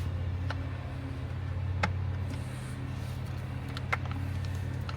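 A steady low machine hum, with a few sharp clicks of hand work near the battery terminals, three in all, about half a second, two seconds and four seconds in.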